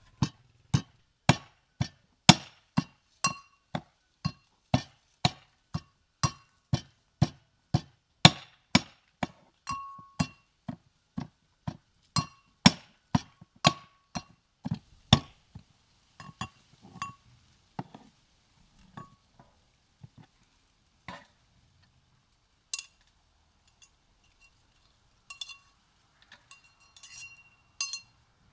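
Cooking utensils clinking: sharp strikes with a brief ringing tone, about two a second, that thin out into scattered, quieter clinks after about fifteen seconds.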